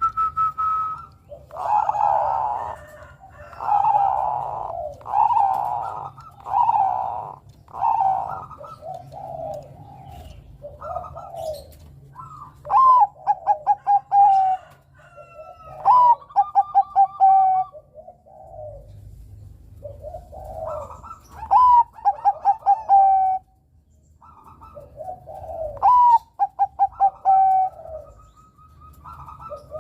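Zebra dove (Bangkok-type perkutut) cooing in repeated phrases. The first phrases are fuller coos; from about twelve seconds in, four phrases of quick stuttering notes each end in a drawn-out coo.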